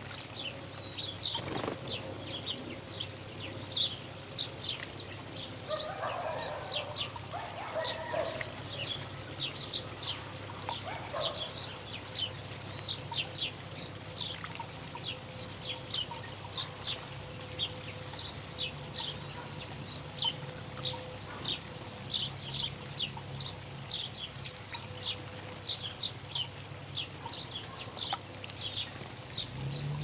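Small birds chirping over and over, a dense run of short, high chirps in quick succession.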